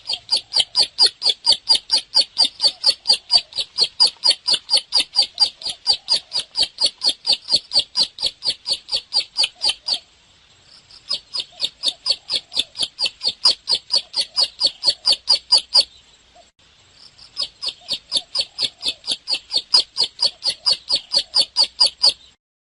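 Bar-winged prinia (ciblek) singing in full, steady voice: a fast run of short, high, repeated notes, about four a second. It comes in three long bursts, with brief pauses about ten and sixteen seconds in.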